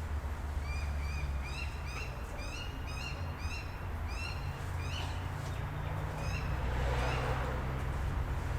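A bird calling a fast series of short, repeated notes, two or three a second, for about five seconds, over a steady low hum.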